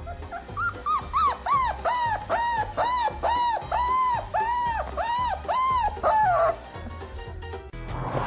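A dog giving a string of about a dozen short, high whining yelps, each rising and then falling in pitch, about two a second, the last one sliding down. Background music with a steady beat plays underneath.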